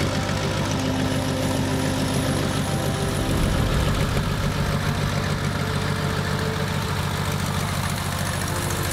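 The 1931 Waco QDC's piston aircraft engine running steadily, with background music underneath.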